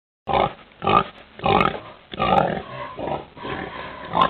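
Pig grunting, a series of about six rough, irregular grunts and snorts.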